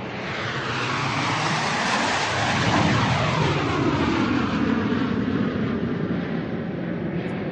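Airplane flying overhead: a broad rushing engine noise that swells to its loudest about three seconds in, then slowly eases, its tone sweeping as the plane passes.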